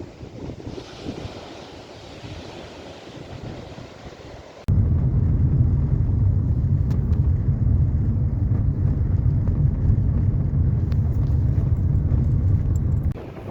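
Wind and surf on the shore, then about five seconds in a loud, steady low rumble of wind buffeting the microphone starts suddenly and drowns out the waves. It cuts off just as suddenly near the end.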